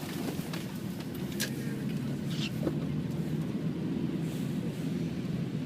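Car engine and road noise heard from inside the cabin while driving, a steady low rumble with a couple of faint clicks.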